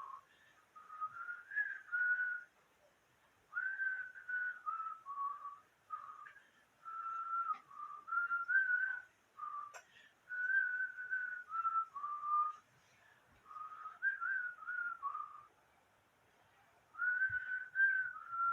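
A person whistling a simple tune: clear single notes stepping up and down, in short phrases of a couple of seconds with brief pauses between them.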